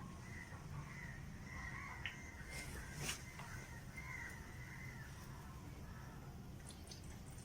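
Birds calling in the background, a run of short repeated calls, with one sharp click about three seconds in.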